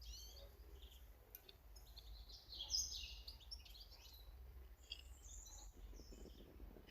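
Small garden birds calling and singing in short high chirps, densest and loudest about three seconds in, over a faint steady low rumble.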